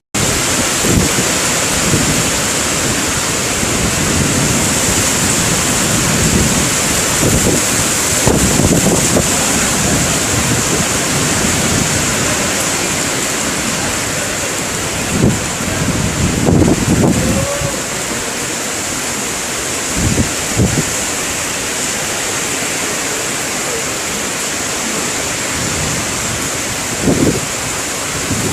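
Heavy rain pouring down in a steady dense hiss, during a windstorm. Low gusts of wind buffet the microphone a few times.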